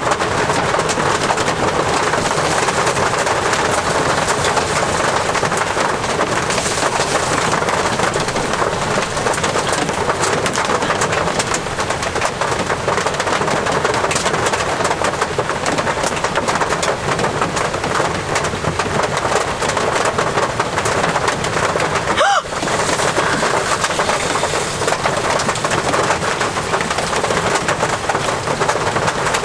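Steady rain falling, an even hiss that breaks off once for a moment about two-thirds of the way through.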